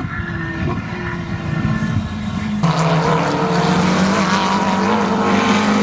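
McLaren 720S GT3 race car's twin-turbo V8 running hard at a fairly steady pitch. About two and a half seconds in, the sound jumps abruptly to a louder, fuller engine note.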